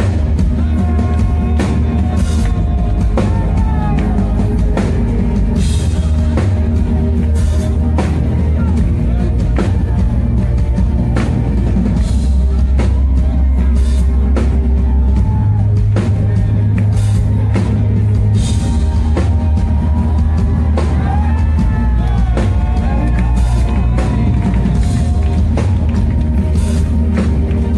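Loud rock music with a drum kit, cymbal hits and a heavy bass line, playing without a break.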